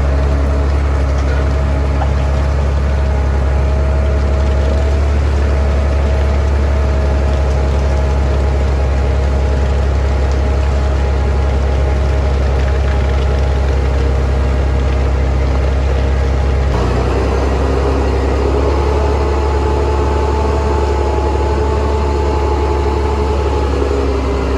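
Heavy truck engine running steadily with a deep low drone; the sound changes abruptly about two-thirds of the way through, as from one truck clip to another.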